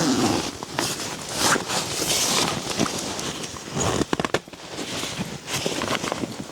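Rustling with scattered clicks and knocks, the sound of a person moving about and handling gear, with a cluster of sharp clicks about four seconds in.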